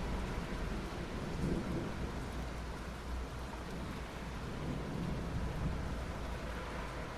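Soft rain falling on asphalt, a steady even hiss, with a low rumble underneath that swells slightly a couple of times.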